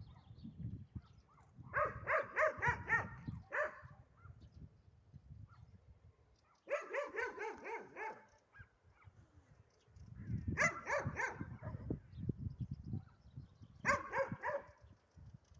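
Dog barking in four bouts of quick, repeated barks, with a low rumble underneath.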